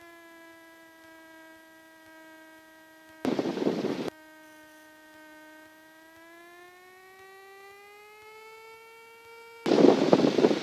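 The Cessna 172M's 180 hp engine is heard as a steady droning hum through the headset intercom while the plane taxis. Its pitch rises a little around two-thirds of the way in, as the power comes up. Two short bursts of harsh rushing noise cut in, one about three seconds in and one near the end, each lasting about a second.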